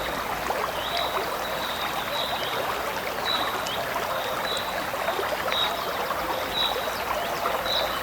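Flowing river water, a steady rushing stream, with a short high chirp repeating about once a second over it.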